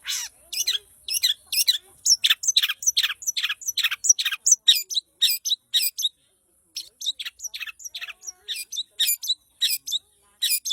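Long-tailed shrike in full song: a fast run of sharp, high chattering notes, several a second, broken by two short pauses.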